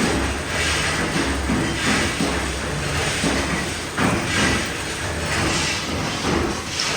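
Factory machinery in a hex nut plant running with a steady low rumble and repeated metallic clanks and knocks.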